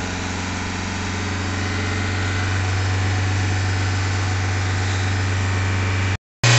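Diesel car engine running at raised revs, held at about 2000 rpm by a pedal depressor on the accelerator for an intake carbon clean. A steady deep hum that grows a little louder over the first few seconds and cuts out briefly near the end.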